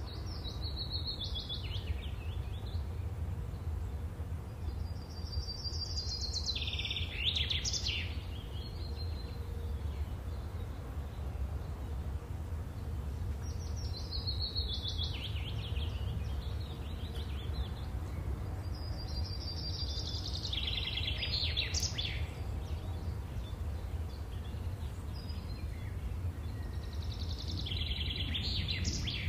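Birdsong: five short chirping phrases a few seconds apart, over a steady low rumble.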